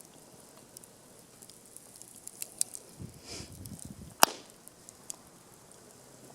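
Wood fire crackling with scattered pops, one sharp, loud pop about four seconds in, just after a short rustle.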